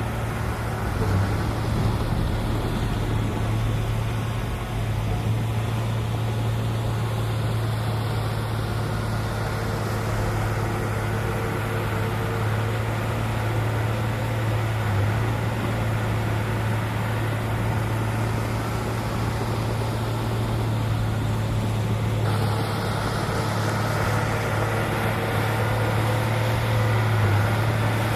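Heavy diesel construction machinery running steadily, a constant low engine drone.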